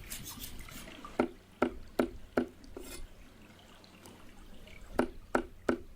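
A run of short, evenly spaced knocks or drips, five in a row about two and a half a second, then three more near the end.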